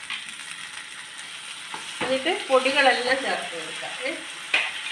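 Chopped onions, green chillies and tomatoes sizzling in oil in a nonstick kadai as a wooden spoon stirs and scrapes through them. The stirring gets louder and more rasping about two seconds in, with a sharp click near the end.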